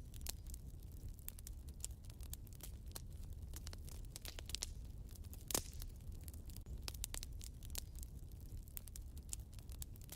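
Wood fire burning in a fireplace: a low steady rumble of flames with irregular small crackles and pops, and one louder snap about five and a half seconds in.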